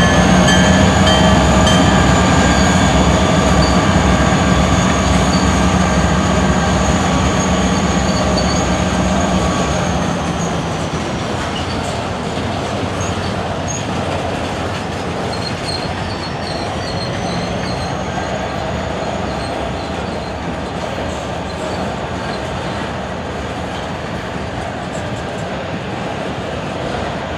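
Freight train passing, its wheels squealing on the rail. A low diesel locomotive engine drone fades out about ten seconds in, leaving the rolling cars, with the squeal rising again later on.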